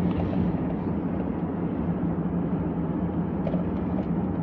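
Steady road and engine noise inside a moving Chrysler minivan's cabin: an even rush with a constant low hum underneath.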